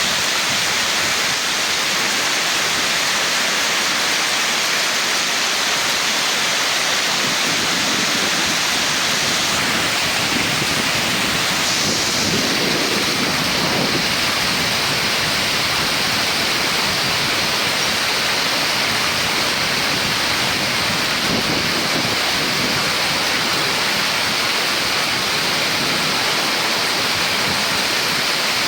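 Torrential rain pouring down in a steady, unbroken rush.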